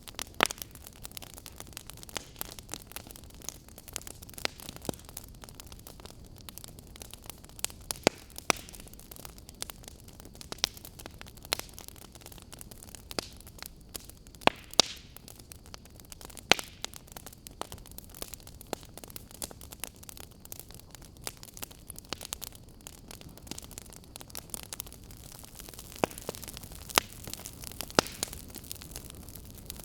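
Wood fire crackling in a fireplace: sharp pops and snaps at irregular intervals, a handful much louder than the rest, over a low steady hiss.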